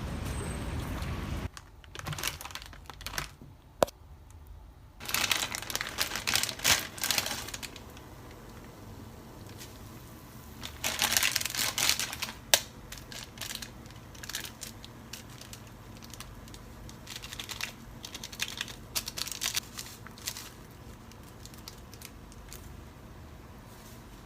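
Kitchen handling noises during food preparation: irregular bursts of rustling and crinkling, like plastic packaging being handled, with scattered light clicks and taps. Background music cuts out about a second and a half in.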